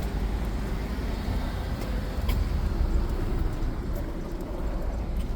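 Steady low rumble of road vehicles and traffic.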